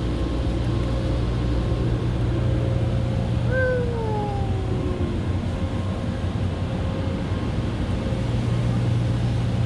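Automatic car wash machinery heard from inside the car: a steady low hum under an even wash of spraying and brushing noise. A short whine falling in pitch about three and a half seconds in.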